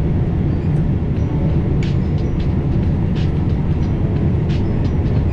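Passenger train carriage rumbling steadily along the track, heard from inside the carriage, with occasional sharp clicks and rattles.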